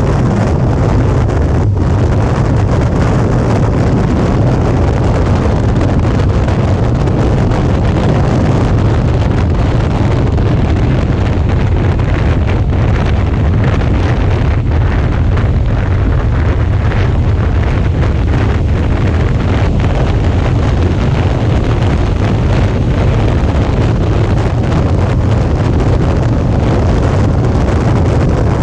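Wind rushing over the camera microphone of a Suzuki V-Strom 650 motorcycle cruising at a steady speed, with the low, even drone of its V-twin engine underneath.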